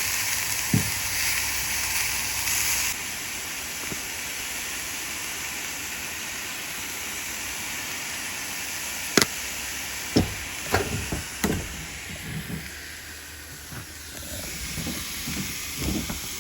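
Onions and steak frying in a cast iron skillet: a steady sizzling hiss, louder for the first few seconds. A few sharp knocks come around the middle and again near the end.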